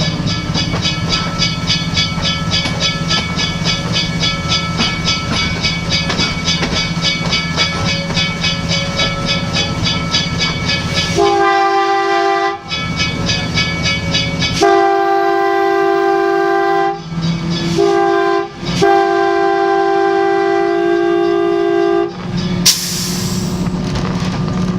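Passenger train running, with steady rolling noise and a fine regular clicking. About eleven seconds in, the train's multi-tone whistle sounds long, long, short, long, the grade-crossing signal. A brief hiss follows near the end.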